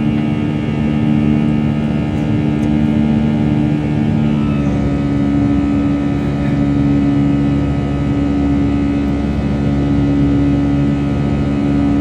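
Airliner engines droning steadily during takeoff, heard from inside the cabin: a loud rumble with several held humming tones that shift about four and a half seconds in.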